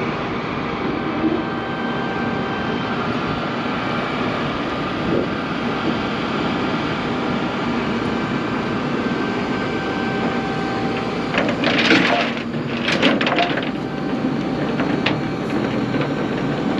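A car driving, with steady engine and road noise. A few sharp knocks or clicks come about twelve seconds in.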